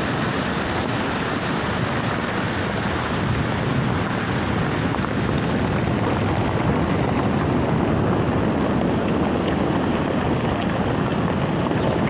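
Mountain river rushing: a steady, even noise of fast-flowing water.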